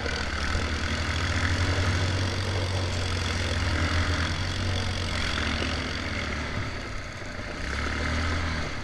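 Motorcycle engine running steadily at low revs, easing off briefly about seven seconds in and then picking up again.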